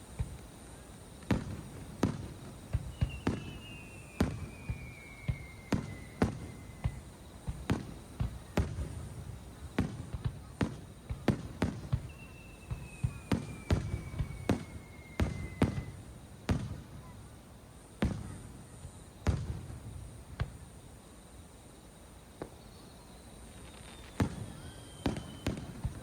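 Fireworks display: aerial shells bursting in a rapid, irregular string of sharp bangs, with a lull about three-quarters of the way through. Three times a thin whistle glides slowly down in pitch over a few seconds.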